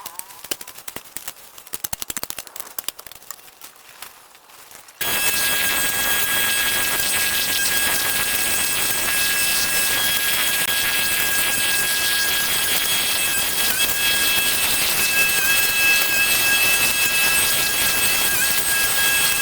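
Scattered light clicks and crackles, then about five seconds in a loud powered machine starts abruptly and runs at an even, hissing level with a few thin high whines on top.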